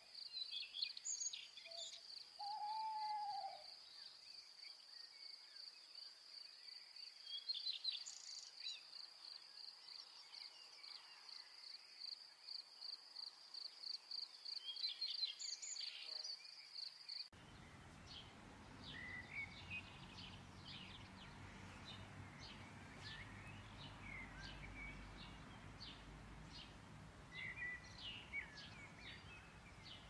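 Wild birds calling outdoors: a few clear, arched whistled calls and scattered chirps over a steady, high, pulsing trill. About seventeen seconds in the recording changes abruptly to a busier chorus of short, high chirps over a low background rumble.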